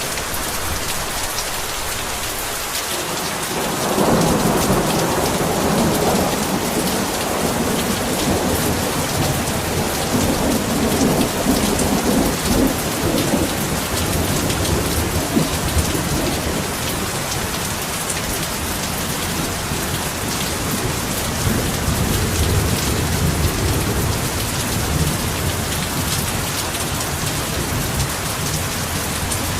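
Heavy rain falling steadily, with thunder rumbling in: a long low roll starts about four seconds in and swells again later.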